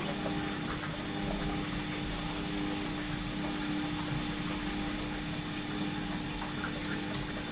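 Washing machine running: a steady motor hum over the sound of water flowing through the machine.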